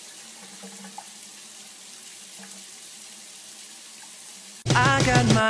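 Steady hiss of water running from a tap into a bathtub. About four and a half seconds in, loud music with a beat cuts in suddenly.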